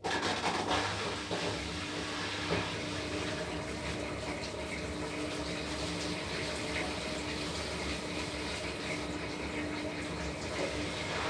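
Washing machine running, with steady rushing water and a steady hum, starting abruptly.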